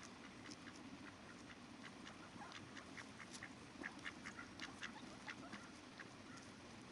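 Ducks quacking in quick, short calls, busiest midway through, over the steady low rush of river water.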